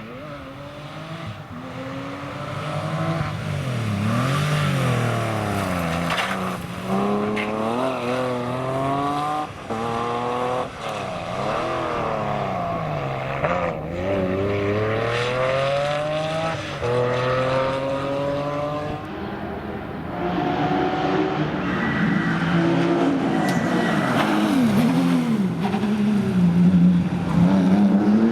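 Porsche rally car's flat-six engine driven at full attack on a stage, revs climbing hard and dropping sharply at each upshift, with swooping down-and-up revs between runs as it brakes and powers out of corners. It gets louder as the car comes closer.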